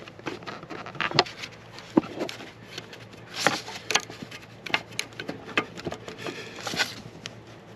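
Hand tool working at a hose clamp to free a coolant hose from an EGR valve: irregular sharp clicks, taps and small scrapes of metal on metal, several a second at times, with no steady rhythm.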